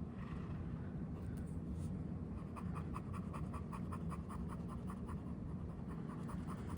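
Pen nib scratching on paper in a quick run of short strokes, several a second, starting a couple of seconds in, over a faint low steady hum.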